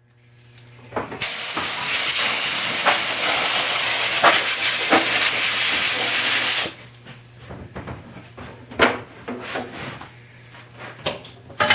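Compressed air blowing dust out of a wooden machinist chest: one steady hiss lasting about five seconds that cuts off sharply, followed by light taps and knocks.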